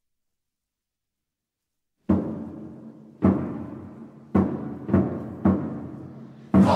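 A deep drum struck six times, each stroke ringing and dying away, after about two seconds of dead silence. A choir of singing voices comes in right at the end.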